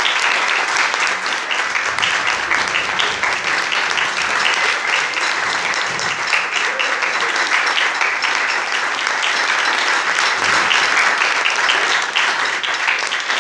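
Audience applauding, a dense, steady clapping that stays loud without a break.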